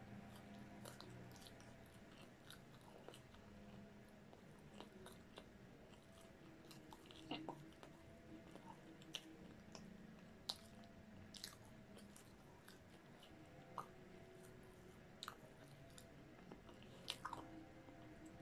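Quiet close-miked chewing of a sauce-dipped French fry, with scattered small mouth clicks and smacks.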